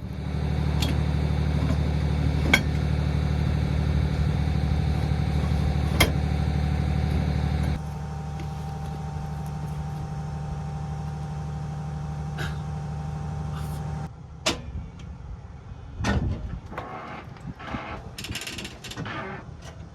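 RAM 3500 pickup's turbodiesel engine running at a steady high idle near 1500 rpm, held there to warm the oil before towing. The sound shifts to a quieter, different tone about eight seconds in and stops about fourteen seconds in, followed by a few knocks and light clatter.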